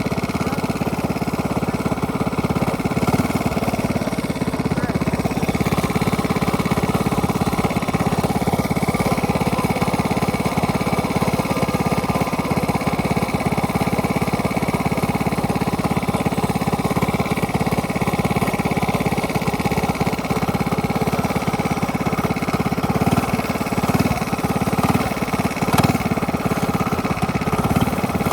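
Minibike engine running steadily through a straight-pipe exhaust, a loud, even run of rapid exhaust pulses with little change in engine speed. A single sharp click comes near the end.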